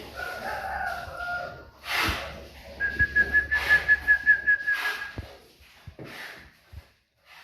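Bird whistling: a short whistled phrase, then from about three seconds in a long, steady, pulsing whistle on one pitch, with a few short noisy rustles in between.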